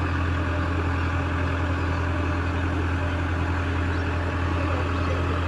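Heavy diesel engine idling steadily with an even, unchanging low hum.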